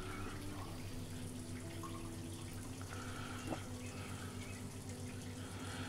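Faint, gentle sizzling and bubbling of cooking oil around panko-crumbed chicken fillets shallow-frying at low heat, with chorizo and spring onions in a wok beside them, over a steady low hum.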